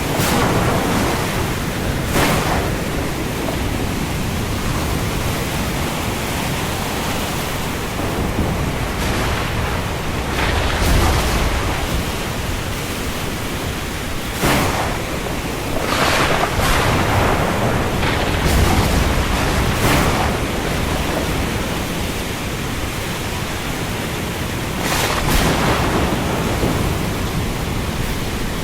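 Heavy rain at sea with waves: a steady hiss that swells in louder surges several times, some carrying a low rumble.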